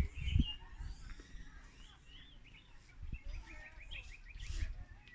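Several small birds chirping, with short quick runs of notes, over intermittent low rumbling.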